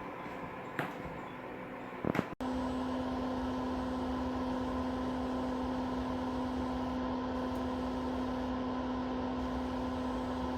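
Electric mini fireplace space heater with its fan running, a steady mechanical hum. A few clicks come about two seconds in, and after them a louder, steady hum with a clear low tone holds to the end.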